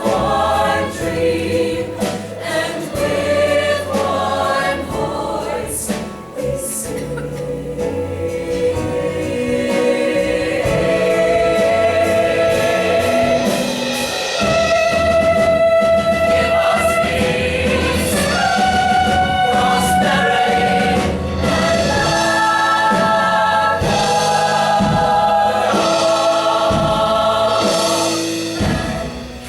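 A choir singing to music. Sharp rhythmic strokes run under the voices in the first third, and the second half holds long sustained notes.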